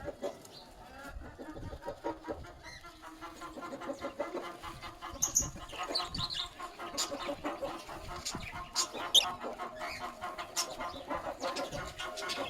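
Lovebird chick begging while being hand-fed: a rapid pulsing chatter that grows louder about four seconds in, with a few sharp clicks.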